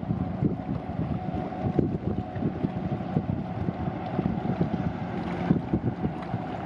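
Wind buffeting the microphone outdoors: an uneven low rumble that flutters in gusts, with a faint steady tone behind it.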